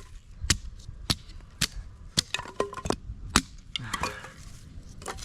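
Dry sticks and firewood being broken up by hand: about ten sharp wooden cracks, roughly two a second.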